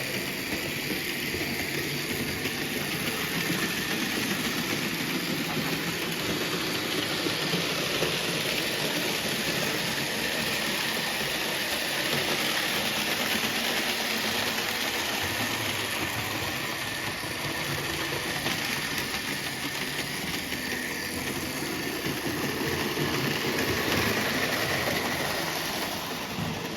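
Märklin BR 038 (3099) HO model steam locomotive and its tinplate coaches running on Märklin M metal track: a steady electric motor hum with the rumble and clatter of wheels on the metal rails. It grows louder and softer a few times.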